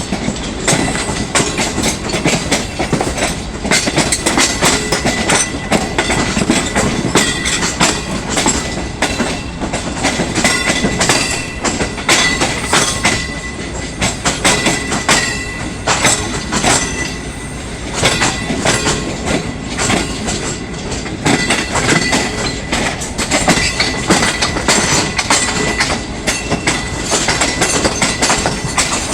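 Green Line Express passenger train rolling along the track as it departs, its wheels clattering over rail joints in an irregular clickety-clack, with a faint steady high whine from the wheels.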